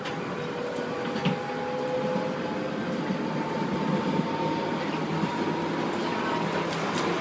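Commuter train running, heard from inside the carriage: a steady rumble with a faint steady whine and a few light clicks.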